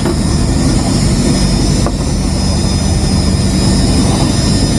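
Fishing boat's engine running steadily: a loud, even engine noise with a low hum under it.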